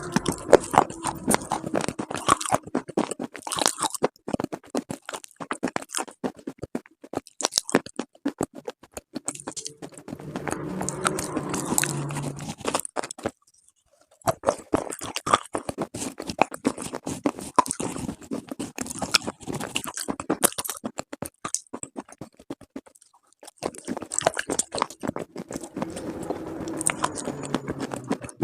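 Close-up crunching and crackling of slate pieces and slate paste, a dense run of sharp crisp crunches broken by short pauses about a third of the way in and again near the three-quarter mark.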